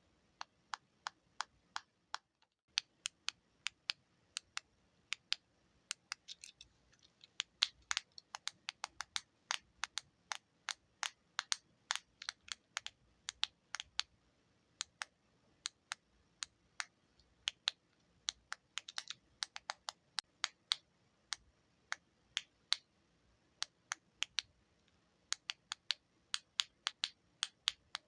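Buttons being pressed and clicked in quick, irregular succession: a long run of sharp clicks, a few a second, with a brief pause about two seconds in.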